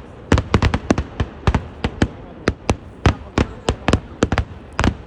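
Kerala temple-festival fireworks: a rapid, irregular string of sharp bangs, about four a second.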